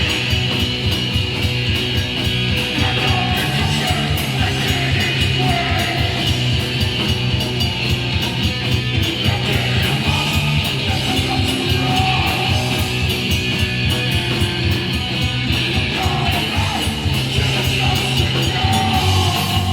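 Hardcore punk band playing live: distorted electric guitar, bass and fast drums, loud and without a break.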